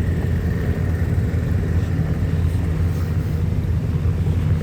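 An engine running steadily nearby, a continuous low rumble with a held hum.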